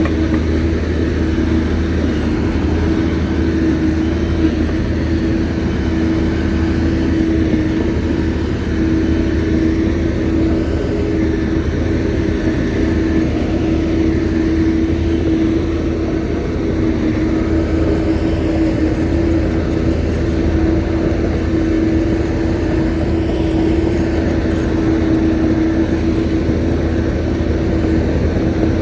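Shantui bulldozer's diesel engine running steadily, a low hum with a constant higher whine over it.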